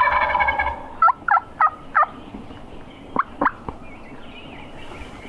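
Wild turkey gobbler gobbling close by, a loud rattling call lasting about a second. It is followed by four short yelping notes in quick succession and two more a second later.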